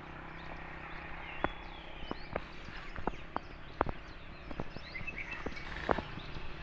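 Small birds chirping, with a scatter of irregular sharp clicks and taps and a steady low hum underneath.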